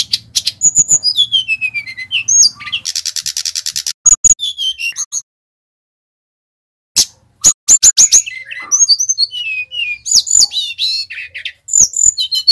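Sikatan rimba dada coklat (SRDC) singing loud, high whistled phrases of quick downward-sliding notes and sharp chips, with a fast buzzy trill about three seconds in. The song breaks off for about two seconds in the middle, then resumes with more sliding whistles and trills.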